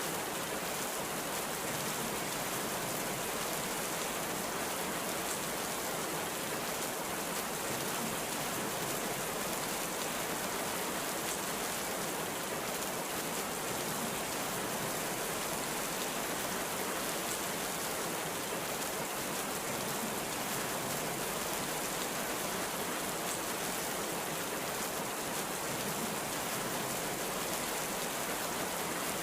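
Heavy rain falling steadily, an even hiss of many drops with no thunder and no change in loudness.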